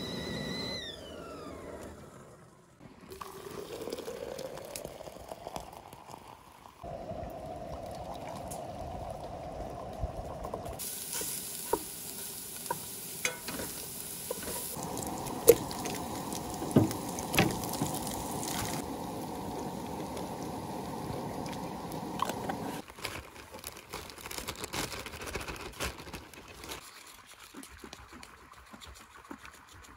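Camp cooking sounds in short cuts. Ground sausage sizzles in a stainless steel pot while a wooden spoon stirs it and knocks against the pot a few times. After that comes quieter scraping of butter on a box grater.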